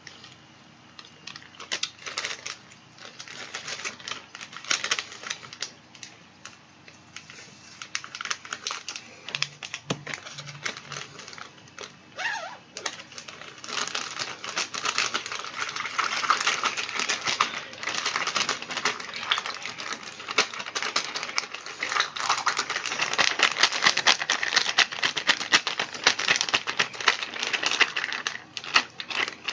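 Plastic zip-top bag holding candy-kit powder and water, crinkling and rustling in quick crackly clicks as it is shaken. The sound is sparse at first, then denser and louder from about halfway through.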